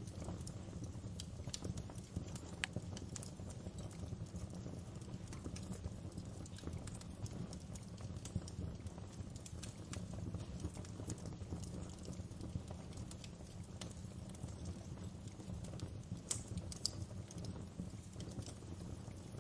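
Wood fire burning in a fireplace: a steady low rumble of flames with scattered crackles and pops, and a couple of sharper pops near the end.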